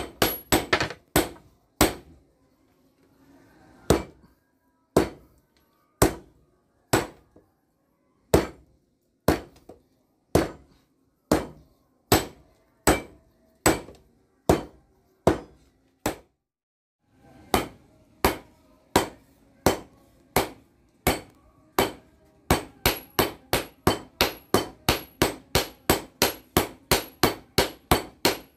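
Hand hammer striking hot bearing steel on an anvil to forge a blade, each blow sharp and ringing. The blows come about one a second, break off briefly in the middle, then quicken to about three or four a second near the end.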